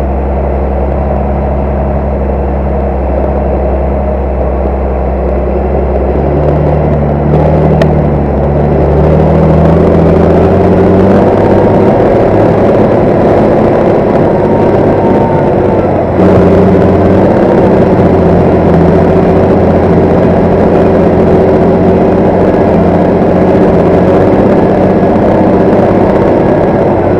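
Large farm tractor's diesel engine running steadily; about seven seconds in it picks up revs and gets louder, then holds a higher steady note for the rest.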